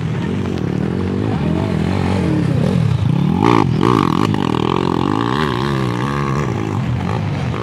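Motocross dirt bike engines revving hard as the riders race, the pitch repeatedly rising and falling as they accelerate and shift. A higher-pitched engine whine joins about three and a half seconds in and fades near the end.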